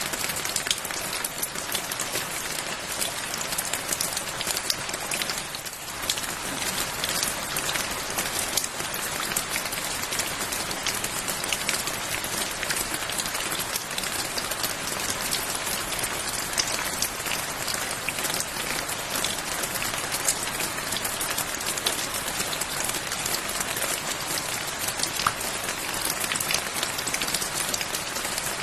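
Steady rain falling, a dense hiss sprinkled with many individual drop ticks, dipping briefly about six seconds in.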